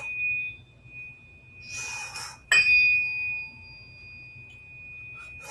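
Tuning fork ringing with a high steady tone. About two and a half seconds in it is struck again with a sharp click, just after a short rustle, and rings on loudly before slowly fading.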